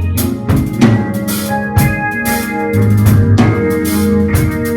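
Gospel band playing an instrumental passage: organ holding chords over a drum kit with regular drum and cymbal hits.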